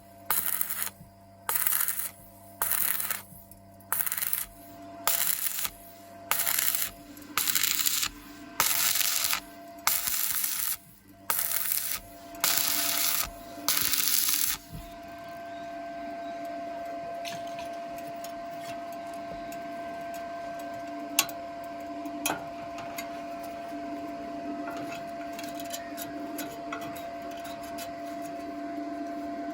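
Arc welding on thin square tube in short stitch pulses: about a dozen bursts of crackling arc, roughly one a second, each cut off after well under a second. About halfway through the pulses stop and a steady quieter hum with a faint tone carries on, with a couple of sharp clicks.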